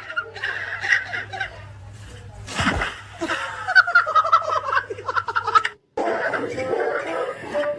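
People laughing and giggling, with short bursts of chuckling throughout.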